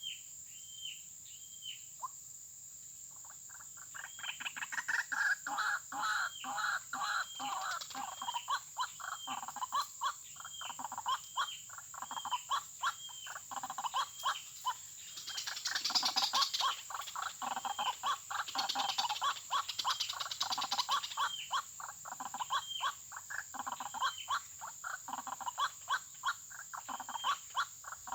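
White-breasted waterhens calling: a few spaced, repeated notes, then from about three seconds in a dense, rapid, croaking chorus of repeated calls that carries on, loudest in the middle.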